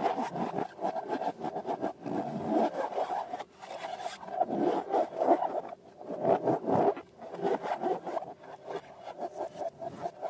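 Rubber balloons and slime being squeezed and rubbed by hand, giving squeaky, scraping rubbing in bursts of about a second with short pauses.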